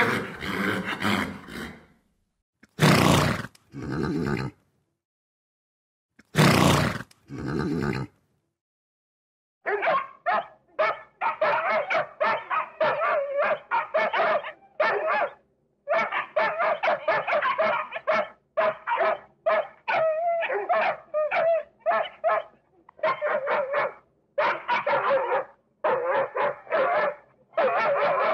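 A horse's whinny fades out at the start, followed by two short, loud breathy blasts. Then, from about ten seconds in, dogs bark over and over in quick runs of short barks.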